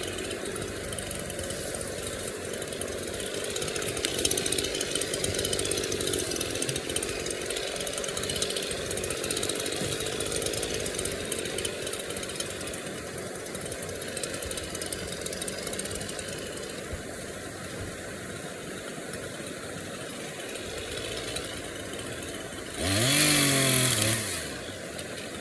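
Small gas chainsaw running steadily, then revved hard once near the end, its pitch climbing and dropping back.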